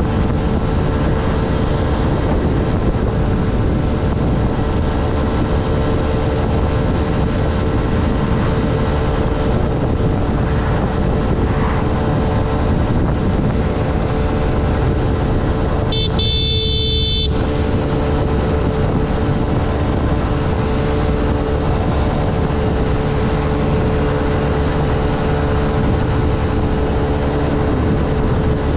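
Honda Navi mini-motorcycle's small single-cylinder engine running steadily while riding, with road and wind noise. About halfway through, a vehicle horn sounds once for a bit over a second.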